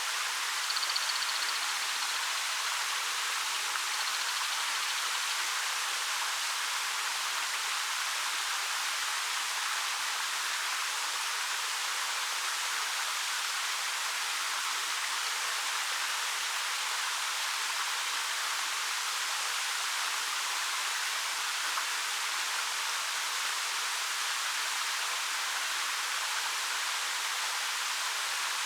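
Waterfall with a 13 m drop over dark rock, a steady, even rush of falling water with little low rumble.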